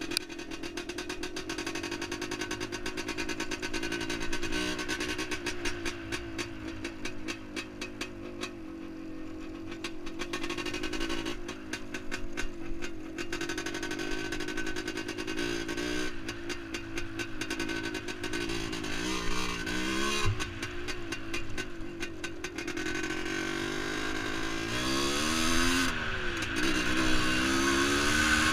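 1978 Yamaha DT400E's single-cylinder two-stroke engine running while the bike is ridden, its pitch rising and falling with the throttle, with sharper revs about two-thirds of the way through and again near the end.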